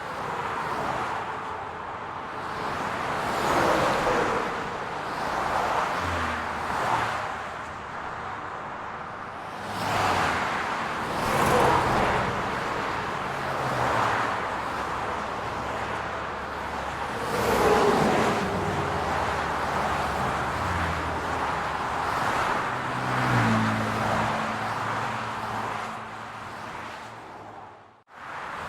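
Urban road traffic: cars passing one after another, each swelling up and fading, over a steady hum of engines. The sound briefly drops out near the end.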